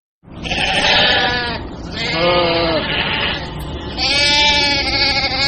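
Sheep bleating: three long bleats in a row, the last running on past the end.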